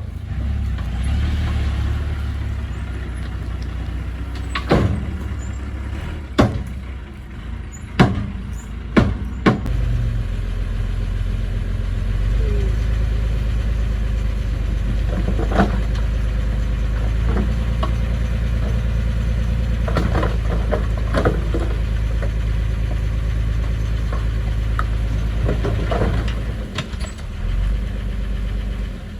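Construction machine's diesel engine running steadily, its drone dropping lower about a third of the way in. Sharp knocks come through it, several close together in the first third and a few more in the middle.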